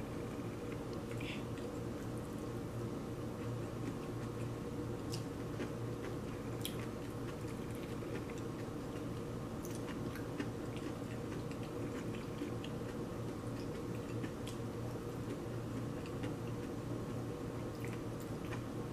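Close-up eating sounds: chewing and soft wet mouth noises, with a few light clicks of wooden chopsticks against porcelain plates, over a steady low hum.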